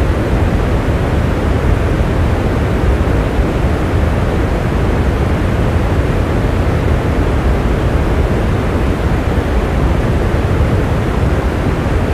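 Steady rain: an even, unbroken rush of noise, heaviest in the low end, with no single drops or other events standing out.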